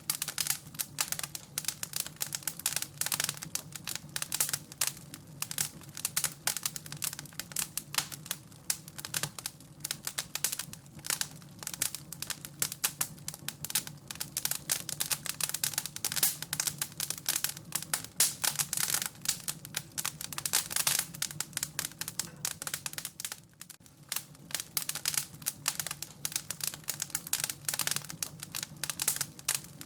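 Wood fire crackling and popping: a dense, irregular run of sharp snaps over a faint steady low hum, with a short lull a little past two-thirds of the way through.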